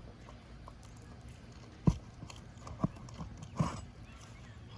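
Hammer knocking on a roof snake to work roofing nails out from under an asphalt shingle: three sharp strikes about a second apart, the first the loudest.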